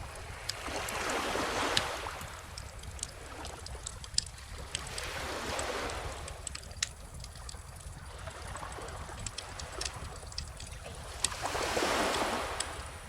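Ocean waves washing ashore in slow swells, three in all, the last near the end the loudest, over a wood bonfire crackling with many small sharp pops throughout.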